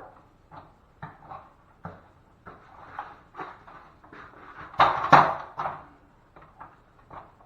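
Drywall knife scraping and spreading setting-type joint compound in short repeated strokes, with a louder, longer stroke about five seconds in.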